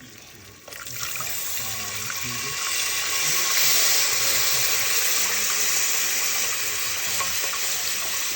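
Chicken broth pouring from a poked carton into a hot pan of browned butter and curry powder: a steady rush of liquid that starts about a second in.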